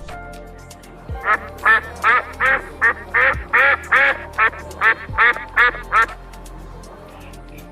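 Duck quacking: a run of about a dozen quick quacks, two or three a second, starting about a second in and stopping about six seconds in.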